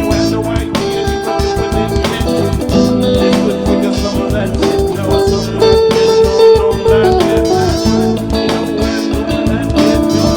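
A band playing improvised music: guitars over a steady beat, the notes shifting and changing pitch as the players jam.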